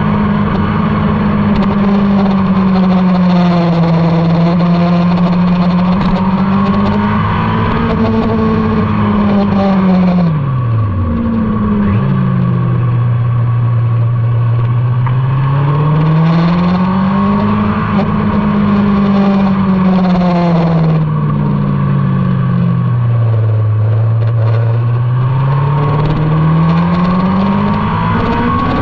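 Motorcycle engine lapping a race circuit, its revs repeatedly rising and falling through the gears. About ten seconds in it drops sharply as the throttle shuts and it shifts down, and it changes gear again about two thirds of the way through.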